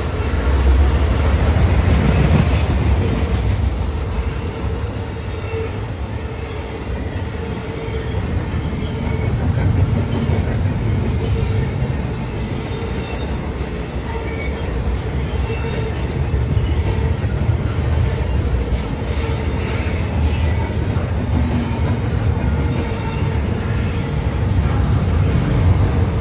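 Intermodal freight train's double-stack container and trailer cars rolling past at close range: a continuous rumble and rattle of steel wheels on the rails, with a faint steady tone above it. It swells about a second in and again near the end.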